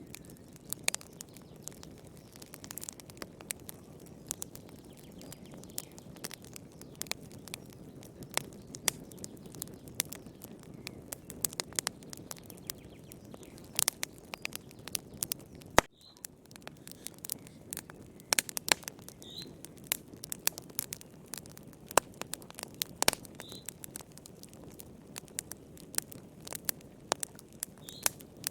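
Wood fire crackling in a fireplace: irregular sharp pops and snaps over a steady soft low rush of burning.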